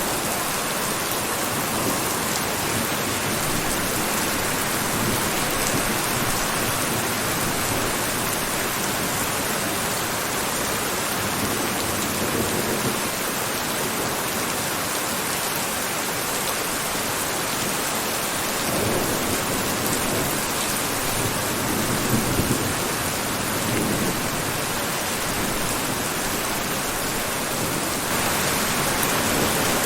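Steady, dense rainfall hissing, with a few low rumbling swells in the second half.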